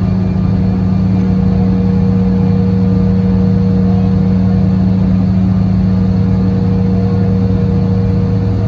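Cabin hum of a CRJ-900's rear-mounted GE CF34 turbofan engines, heard from a seat toward the tail: a steady, loud hum with a few held low tones.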